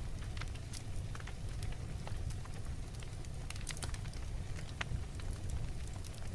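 Wood fire in a fireplace burning steadily, with a low rumble of flames and frequent irregular sharp crackles and pops.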